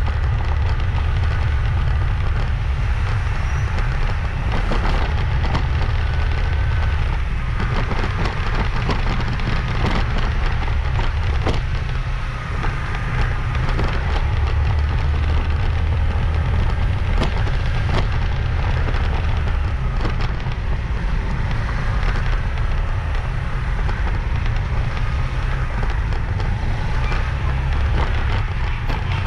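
Wind and road noise on a moving motorbike: a steady low rumble of wind buffeting the microphone, with frequent crackling clicks and rattles from the bumpy road.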